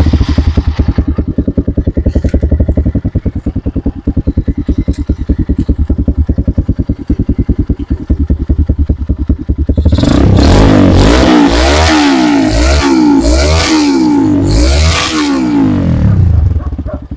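Single-cylinder Kawasaki KLX 150BF dirt-bike engine running through a newly fitted hand-made twin-pipe exhaust as a sound check. It idles with a steady, even thump, then from about ten seconds in it is revved up and down in a series of quick blips before it drops back to idle near the end.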